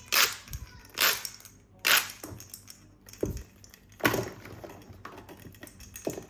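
A series of about six sharp clicks or knocks at uneven intervals, each with a brief rustling tail.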